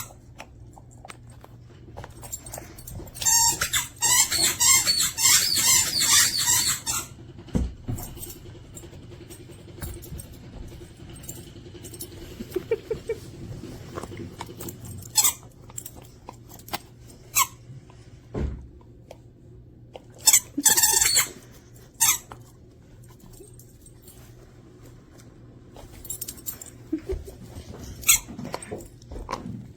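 A squeaky dog chew toy squeaking in quick repeated runs. The longest run comes a few seconds in, and shorter squeak bursts follow now and then.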